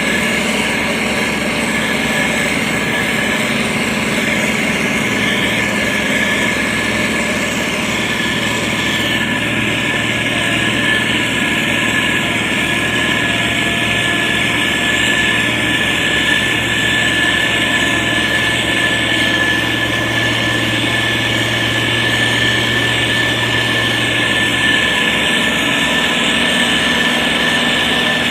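Heavy road-construction machine's engine running steadily, with a deeper hum that joins about six seconds in and drops away a few seconds before the end.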